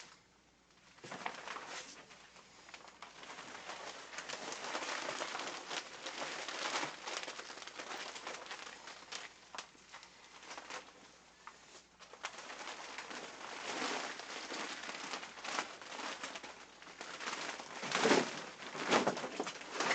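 Clear PVC rain poncho rustling and crinkling with movement, an uneven wash of plastic noise that swells louder near the end.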